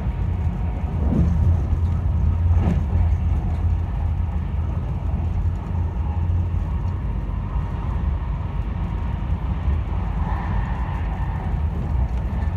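Steady low rumble of a moving train heard from inside the passenger carriage, a little louder for a couple of seconds near the start.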